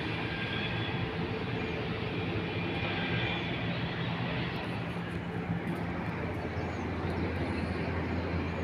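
Steady noise of heavy rain and wind in an open city, with a steady low hum underneath.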